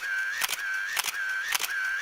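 A comedy sound effect that repeats in a steady loop: a sharp click about every half second, with a steady high tone held between the clicks.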